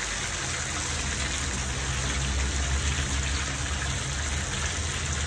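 Chicken pieces deep-frying in hot oil on a low flame: a steady sizzle as the pieces are turned, with a low hum underneath.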